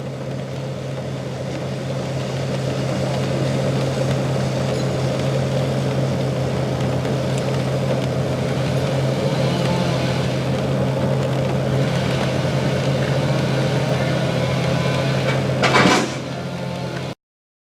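A car's engine and road noise heard from inside the vehicle: a steady low hum under a wash of noise that grows a little louder over the first few seconds. A brief sharper noise comes near the end, then the sound cuts off abruptly.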